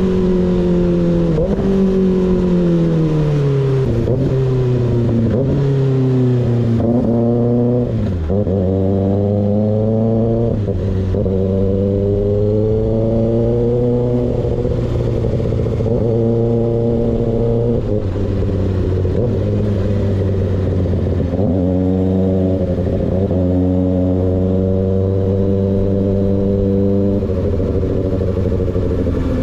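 Sport motorcycle engine with a baffle-less M4 slip-on exhaust, revving on the move. Its pitch falls over the first few seconds, then climbs and drops again and again as the rider accelerates and shifts.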